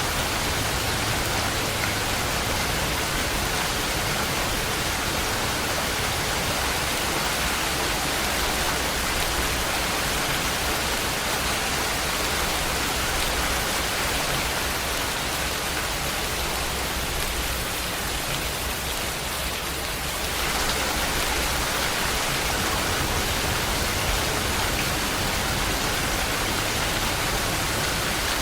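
Steady rain falling, an even hiss with no separate drops standing out. It thins slightly for a few seconds and comes back abruptly about two-thirds of the way through.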